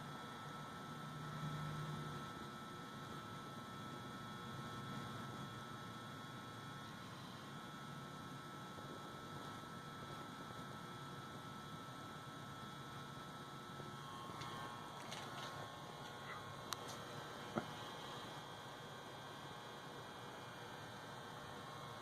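A steady hum over faint hiss, with two short sharp clicks late on.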